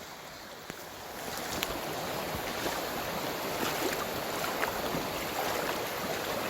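Mountain stream rushing over rocks: a steady wash of water that grows louder about a second in, with a few light knocks.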